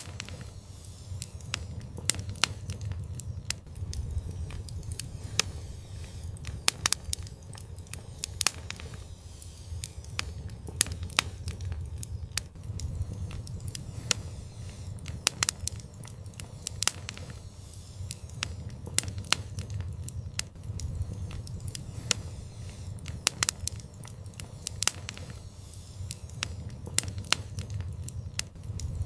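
Fire burning in a fireplace, crackling with frequent sharp, irregular pops over a steady low rumble of the flames.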